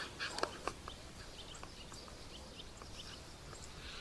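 A few sharp, dry clicks in the first second, like white storks clattering their bills, then faint, scattered chirps of small birds.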